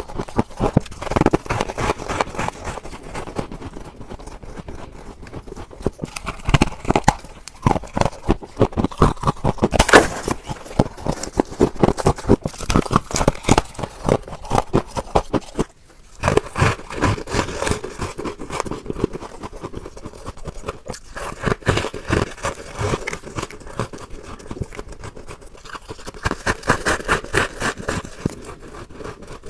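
Close-up biting and chewing of frost ice scraped from a refrigerator: a rapid, crisp, irregular run of crunches and scrapes, with a brief break about halfway through.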